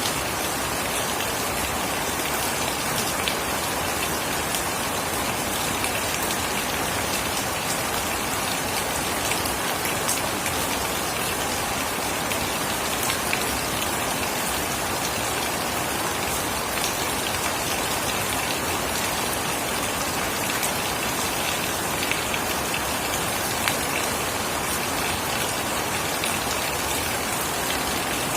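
Steady rain falling, an even hiss with scattered sharper drop ticks against a hard surface.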